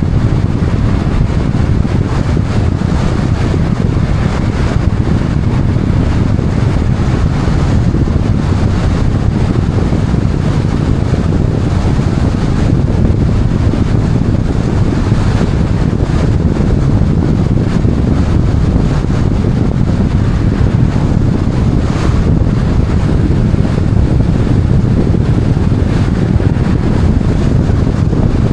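Wind buffeting the microphone: a loud, steady low rumble that holds at one level throughout, with no pauses.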